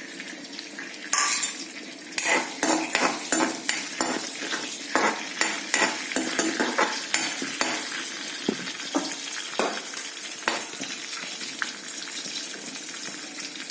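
Whole spices (cloves, star anise, fennel seeds, mace) sizzling in hot coconut oil in a kadai, with a utensil repeatedly scraping and clinking against the pan as they are stirred. The stirring strokes thin out about ten seconds in, leaving the steady sizzle.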